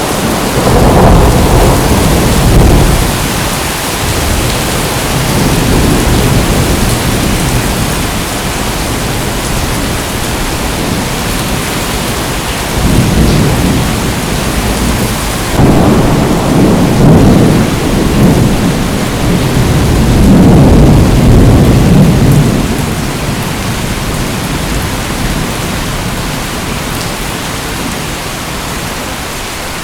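Heavy rain falling steadily with thunder rumbling in several low rolls: one near the start, then three more close together about halfway through, the last lasting a couple of seconds before fading.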